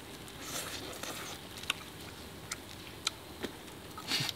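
Soft, scattered clicks and smacks of a person chewing a mouthful of roast chicken, over a faint steady hiss, with a brief louder rustle near the end.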